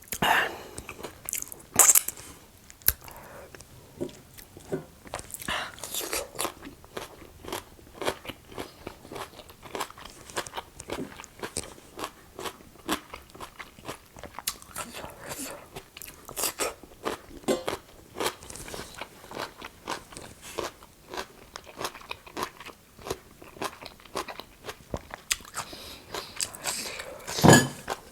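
A person eating close to the microphone, biting and chewing crunchy food: many short, irregular crunches and mouth clicks, with a louder crunch about two seconds in.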